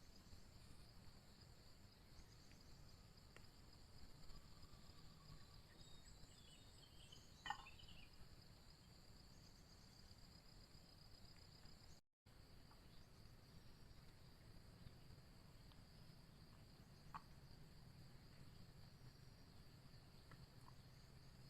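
Faint steady chorus of forest insects, a continuous high-pitched buzzing trill, with a short chirp and a click about seven seconds in and a brief cutout midway.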